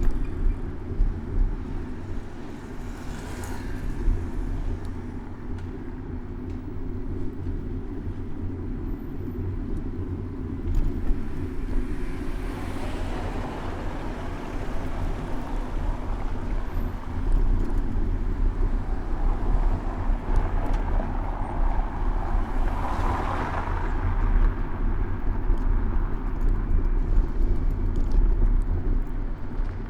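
City street traffic heard from a moving bicycle: a steady low rumble, with vehicles swelling up and fading as they pass, most clearly about twelve and twenty-two seconds in.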